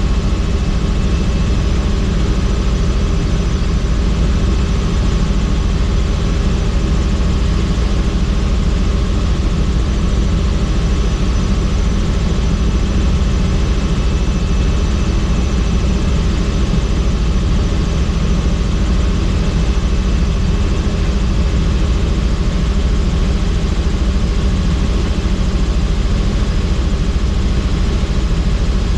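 Helicopter in flight, heard from the cabin with the doors off: a loud, steady engine and rotor drone.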